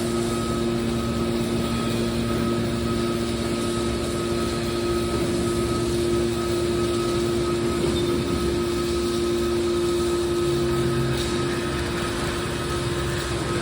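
Aluminium can baler running with a steady, even mechanical hum.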